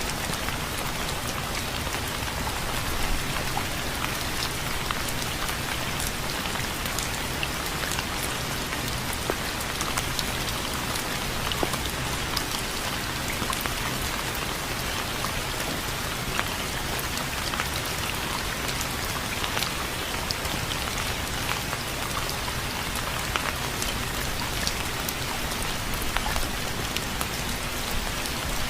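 Steady rain falling on a surface, a constant hiss dotted with many individual drop ticks.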